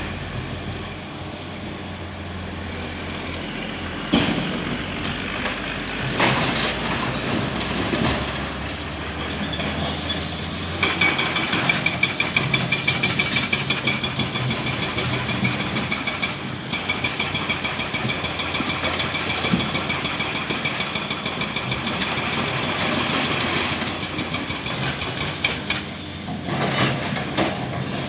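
Komatsu PC650 hydraulic excavator working, its diesel engine running steadily. There are several heavy clanks a couple of seconds apart early on. Then comes a high whine with a fast pulsing, about five a second, which runs through the middle and eases near the end.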